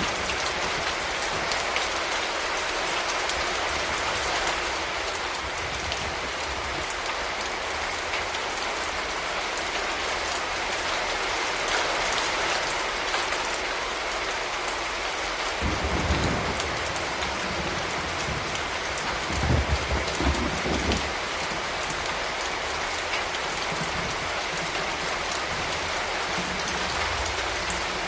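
Steady rain falling in a city, with a low rumble rising under it about halfway through and fading a few seconds later.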